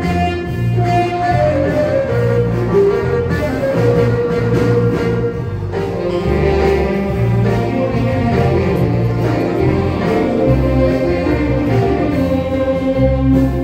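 Live band music: a held, sustained melody line over a walking bass line, loud and continuous.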